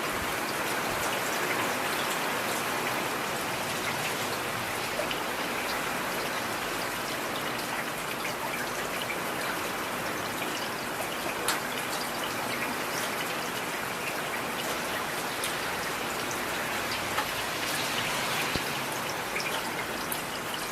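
Heavy rain falling steadily, with scattered sharper drops ticking through the hiss.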